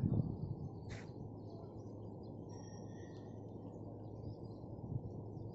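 Scattered bird chirps over a steady low outdoor rumble with a faint hum. There is a short click about a second in.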